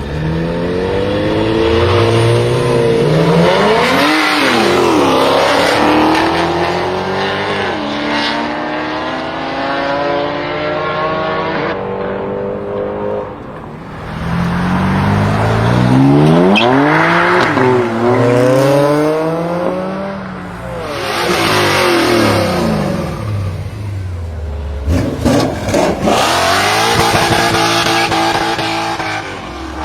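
High-performance BMW car engine revving hard and accelerating through the gears in three runs, its pitch climbing and dropping back at each shift. A few sharp exhaust cracks come near the end.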